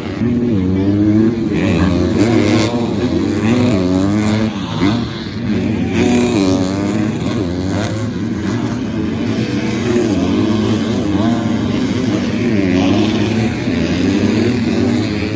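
250cc four-stroke motocross bikes running on the track, their engines rising and falling in pitch again and again as the throttle is opened and closed through the laps.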